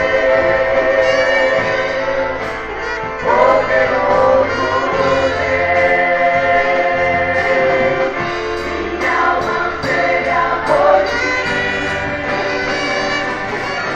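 A gospel vocal group singing with instrumental backing, several voices holding long notes together.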